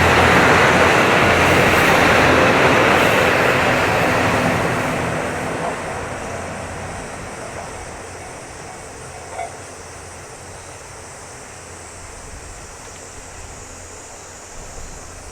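A train running past on the track, its rumble loud at first and fading away over about six seconds to a steady quieter background.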